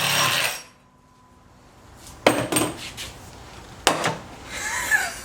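A power cutting tool, cutting down a steel sway bar link, runs loudly and then stops within the first second. After a short pause, metal parts clink and clank together in three brief bursts.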